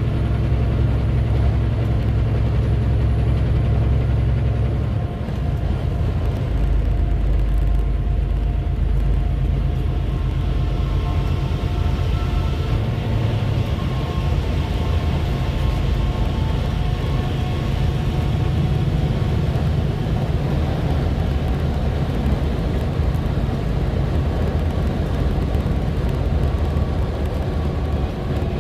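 Heavy truck running on the road: a steady low engine and road rumble with faint steady engine tones above it.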